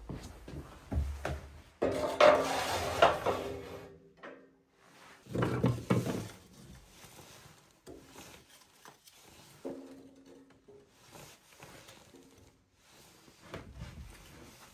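Objects being handled, with scraping, rubbing and clattering knocks. The loudest stretch comes about two seconds in and another about six seconds in, followed by fainter scattered knocks and short creaks.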